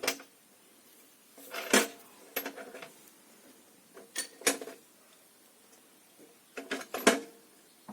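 Metal clinks of a socket wrench on the steel fasteners of a walk-behind tractor engine being bolted back together: several separate sharp clinks, each with a short ring, the loudest about two seconds in and near the end.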